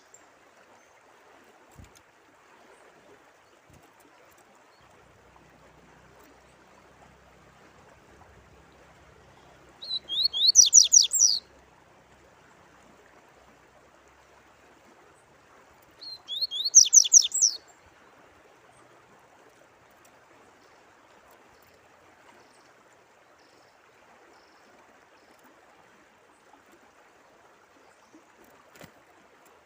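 A songbird sings twice, each time a quick run of sweeping notes lasting about a second and a half, the first about ten seconds in and the second some six seconds later. Under it runs a steady faint trickle of flowing water.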